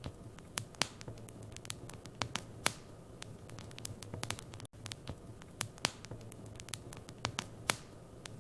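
Wood fire crackling in a fireplace: irregular sharp pops and snaps over a steady low hiss and hum, with a momentary break in the sound about halfway through.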